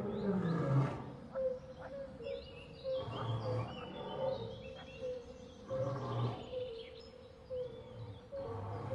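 Wild savanna soundscape: a chirp repeating about twice a second and birds whistling. A lion's deep roar trails off at the start, followed by low grunts every two to three seconds.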